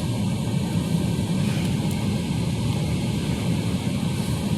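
Mark VII ChoiceWash XT automatic car wash with its rotating brushes scrubbing the vehicle: a steady low rumble.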